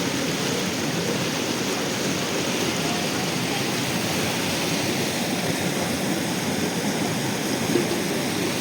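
Steady rushing of flowing river water, with faint voices in the background.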